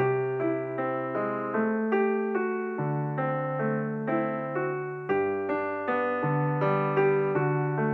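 Background music: a piano playing a gentle, flowing melody of evenly paced notes over held bass notes.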